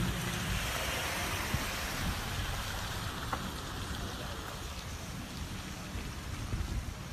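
An ambulance driving away, its tyre and road noise an even hiss that slowly fades as it goes.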